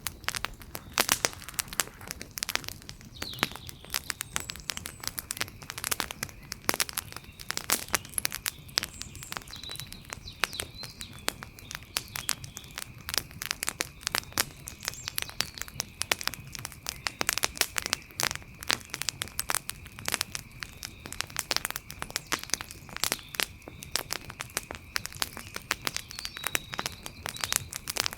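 Wood fire crackling, with many sharp, irregular snaps and pops several times a second, over a faint steady high-pitched tone.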